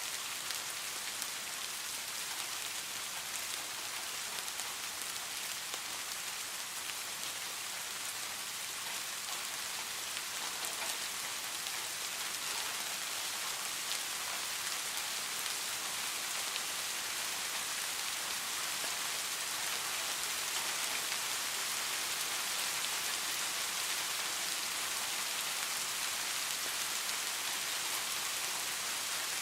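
Steady rain falling on a hard surface: an even, bright hiss with scattered single drops ticking through it, growing slightly louder over the stretch.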